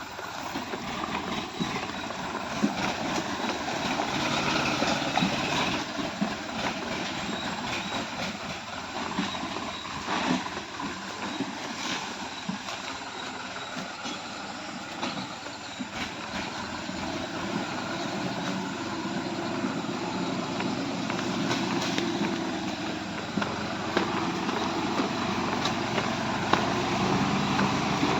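Diesel tractor engine running steadily under load while pulling a weighted cultivator, with scattered rattles and knocks throughout.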